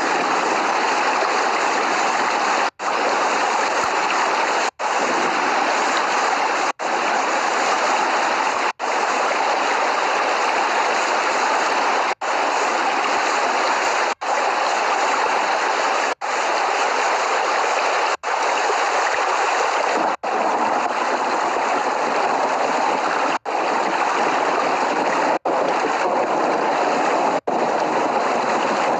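Steady heavy rain, an even hiss, cutting out for an instant about every two seconds.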